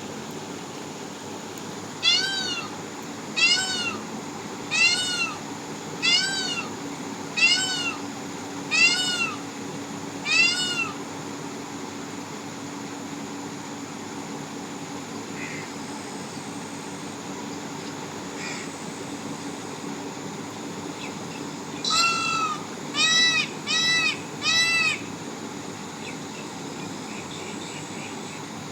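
Peacock calling: a series of seven loud, high calls, each rising and then falling in pitch, about one every second and a half. After a long pause comes a quicker run of five more.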